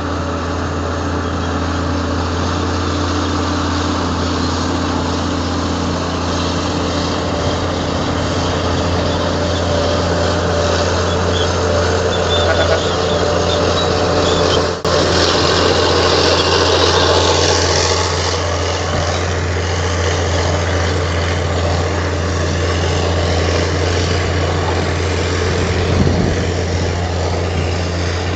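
Komatsu D58 bulldozer's diesel engine running steadily with a deep, constant drone. About halfway through the sound drops out for an instant, then grows brighter and harsher for a few seconds before settling again.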